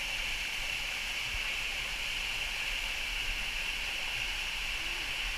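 Waterfall water rushing in a steady, even stream.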